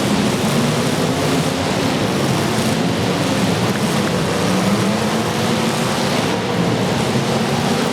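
Many demolition derby cars' engines running at once, a loud, steady din of exhaust noise.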